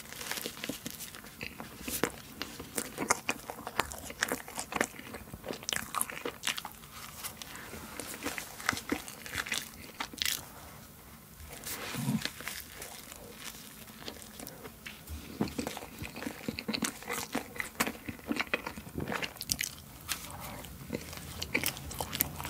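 Close-miked biting and chewing of a cream-filled pastry: an irregular run of small mouth clicks and chews.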